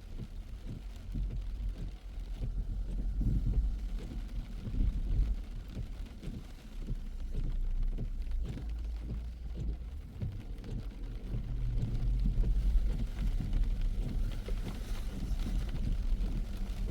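A car driving: a low, uneven rumble of engine and tyre noise on the road.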